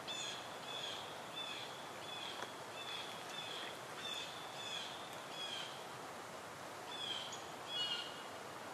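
Forest ambience: a steady soft hiss with a bird calling in short, high chirps, about two a second at first, then pausing and coming back a few times near the end.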